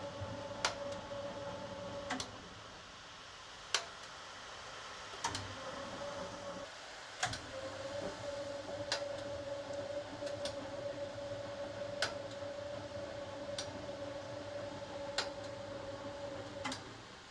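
HUWA Automatic Standard 4 washing machine running through its programme: a steady hum with a noisy wash underneath, broken off for a few seconds around the second and seventh seconds, and a sharp tick about every one and a half seconds.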